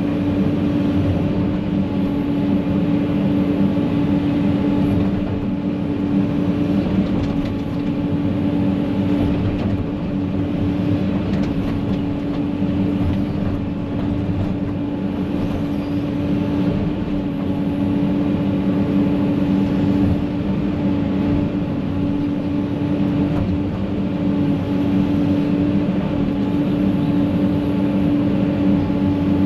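Heavy equipment engine running steadily at a constant speed, a loud, even hum with a steady tone.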